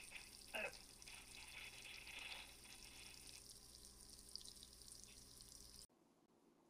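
Shrimp frying in bubbling butter in a small skillet, a faint steady sizzle with a short louder sound about half a second in. The sizzle cuts off abruptly near the end.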